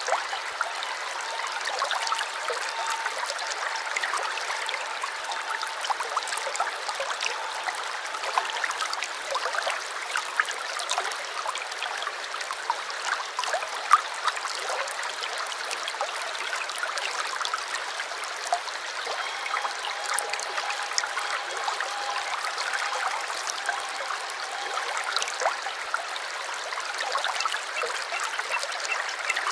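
Shallow stream babbling and trickling, a steady rush of water dotted with small splashes.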